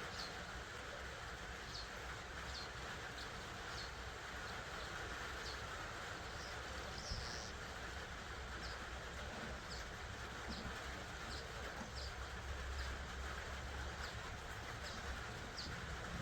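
Small birds chirping, short high chirps repeating irregularly over a steady background hiss and low rumble.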